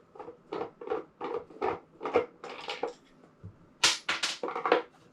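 Rapid, irregular knocks and clatters of hard parts being handled and set in place, several a second, with a louder pair of knocks about four seconds in.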